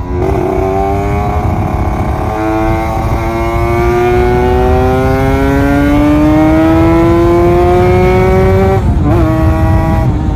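Kawasaki Ninja RR 150's two-stroke single-cylinder engine pulling under load while riding, its pitch climbing steadily for about eight seconds, then dipping and picking up again near the end, as at a gear change. A low wind rumble runs underneath.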